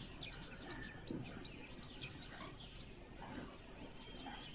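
Faint birds chirping in the background: scattered short high chirps and a brief whistled note, over a low hum of room noise.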